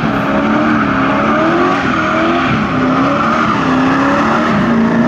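Car engine held at high revs that waver up and down, with the tyres spinning and squealing in a burnout.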